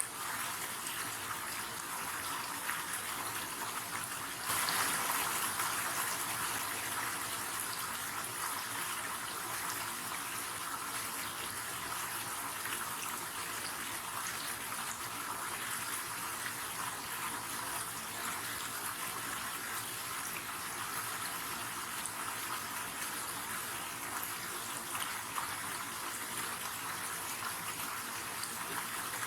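River water flowing and rushing in a steady, even stream, briefly louder for a couple of seconds about four and a half seconds in.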